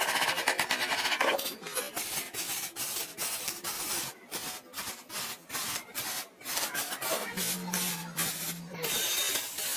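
Sanding on car bodywork: irregular rubbing strokes, two or three a second. It opens with about a second of dense buzzing, and a brief low hum comes in near the end.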